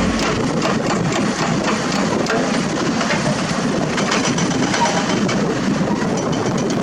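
Heavy diesel construction machinery running steadily, with faint ticks and knocks over the engine noise.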